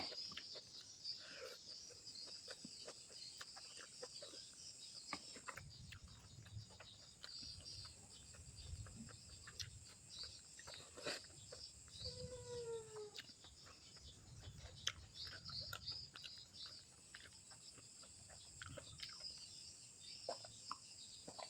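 Faint eating sounds: small mouth smacks, clicks and chewing while grilled snapper is eaten, over a steady high chirring of insects. About halfway through, an animal gives one short call that falls in pitch.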